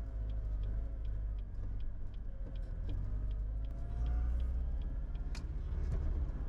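Car being driven, heard from inside the cabin: a steady low road and engine rumble, with a faint regular ticking at about three ticks a second.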